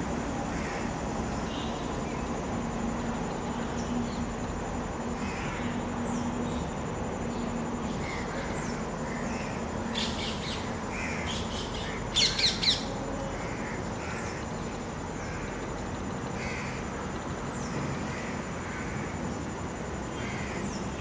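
Birds calling: many short chirps throughout, with a burst of three loud, harsh calls in quick succession about twelve seconds in, over a steady low background hum.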